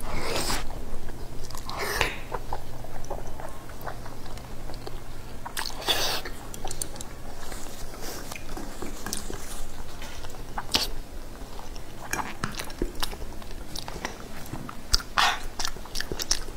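Close-up chewing of a mouthful of braised pork knuckle skin, with irregular mouth clicks and smacks scattered throughout.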